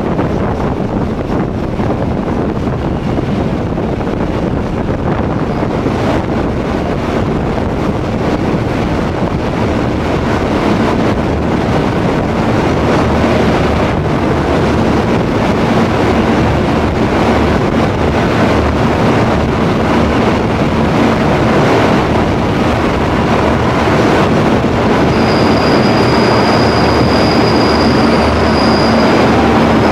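Passenger train rolling slowly into a station, the steady rumble of the wheels and coach heard from the coach window. Near the end a high, steady squeal joins in as the train draws along the platform to its arrival.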